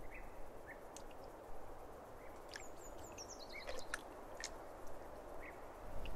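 Quiet outdoor ambience: a steady faint hiss with scattered short, high bird chirps, including a quick descending run of notes about three seconds in.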